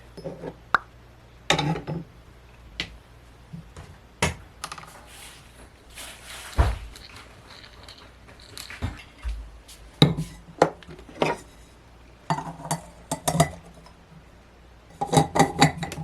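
Household objects being handled: a string of irregular clicks, knocks and light clinks, some in quick clusters, over a faint steady low hum.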